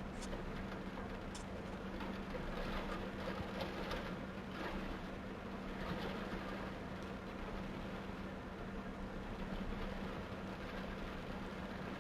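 Steady hiss of heavy rain and water heard from inside a car, over the constant hum of its running engine.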